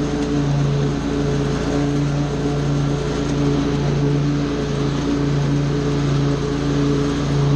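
Small petrol engine of lawn-care equipment running steadily at working speed, its note wavering slightly every second or so under the load of cutting.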